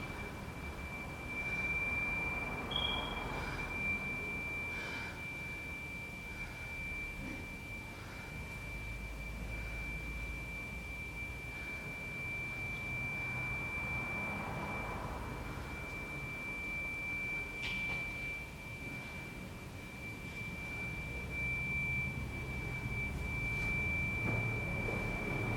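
A steady, high-pitched pure tone held without a break, with a short higher blip about three seconds in, over a faint low rumble.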